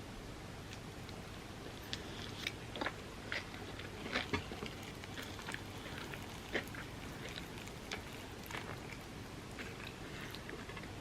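Close-miked chewing and biting of overnight oats with a hardened chocolate and crunchy pistachio kataifi topping: irregular sharp clicks and crunches, busiest a few seconds in.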